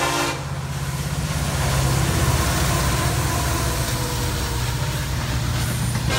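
Norfolk Southern freight train passing: the lead diesel locomotive's horn cuts off just after the start. The locomotives' engines then pass with a low, pulsing rumble that is loudest about two seconds in, followed by the steady rolling noise of intermodal cars.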